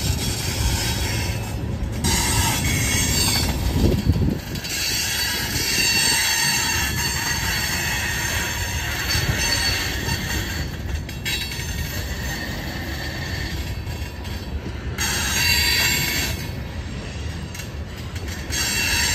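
Covered hopper cars of a freight grain train rolling past with a steady low rumble of wheels on rail. Steel wheels squealing against the rails come and go over the rumble, loudest a few seconds in and again near the end.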